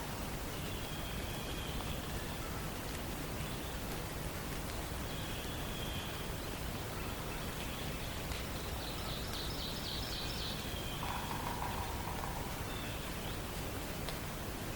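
Wild songbirds calling faintly over a steady hiss of forest background noise: thin high calls about one and five seconds in, a quick trill around nine to ten seconds, and a lower call near eleven seconds.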